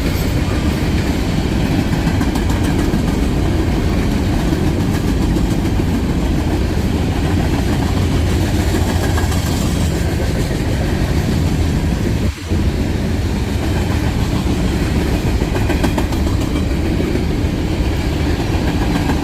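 Freight cars of a CSX train rolling past at speed: a steady, loud rumble of steel wheels on rail, with a momentary drop about twelve seconds in.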